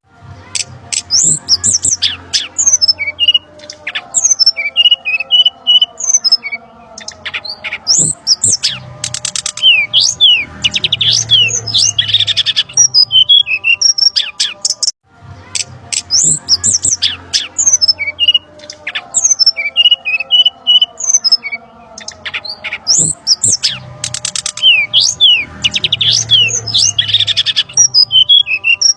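Looped bird-lure recording of brown-chested jungle flycatcher (sikatan rimba dada coklat) calls: a busy run of high chirps, quick down-slurred notes, trills and squawks. About halfway through, the same stretch starts over after a brief break.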